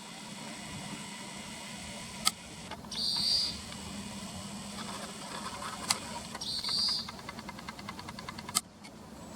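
Small bird calling outdoors: two short high calls about three seconds apart, then a fast twittering trill near the end. Three sharp clicks, about three seconds apart, cut through it.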